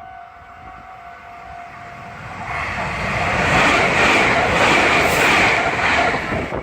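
Meitetsu μSKY express train passing close by. A steady tone at first gives way, about two seconds in, to the loud rushing noise of the train going past, loudest in the middle and easing slightly near the end.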